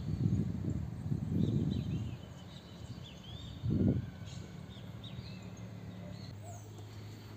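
Small birds chirping with short, repeated high calls. Low rumbles in the first two seconds and a short one near four seconds are the loudest sounds.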